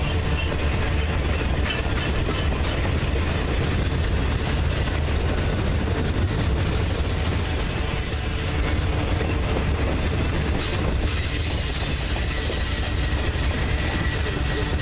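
Freight train rolling past at steady speed: continuous wheel-on-rail noise with a heavy low hum from the cars.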